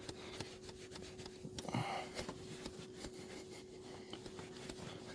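Faint, irregular clicks of a diesel fuel filter-head hand primer being pumped to bleed air from the fuel system, over a faint steady hum.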